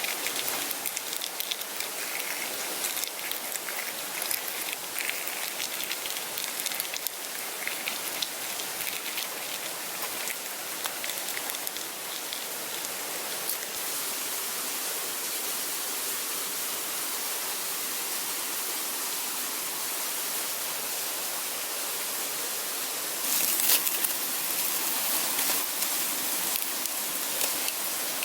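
Campfire burning with a steady hiss and scattered sharp crackles. It grows louder for the last few seconds before cutting off abruptly.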